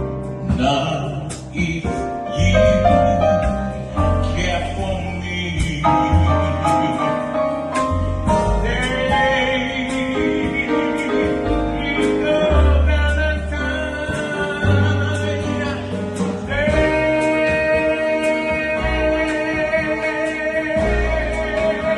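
A singer performing a song with instrumental accompaniment and a bass line, holding long notes with vibrato, the longest starting a few seconds before the end.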